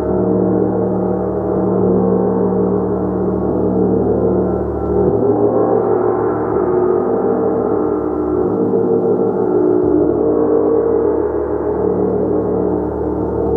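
Gong played continuously in a sustained wash: many overlapping ringing tones, with the low hum swelling and shifting every few seconds as it is struck again.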